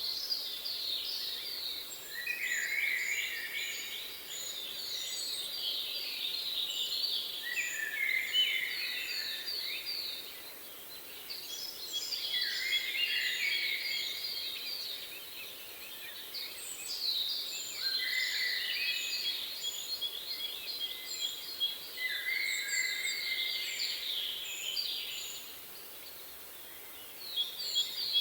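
Several songbirds singing together in a dense chorus of rapid chirping trills and repeated phrases, over a faint steady hiss. The singing drops away briefly twice.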